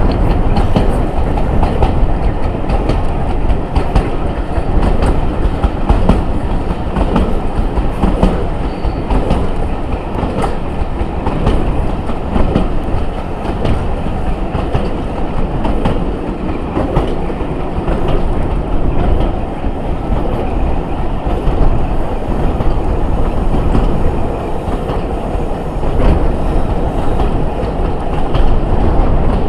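Diesel-hauled passenger train running at speed, heard from an open carriage window: a steady rush of air and running noise, with the wheels clicking over rail joints.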